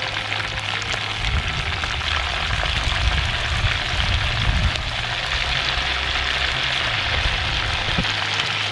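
Pork skins (chicharrones) frying in hot lard in a large pot over a fire: a steady sizzle with fine crackling, over a low, uneven rumble.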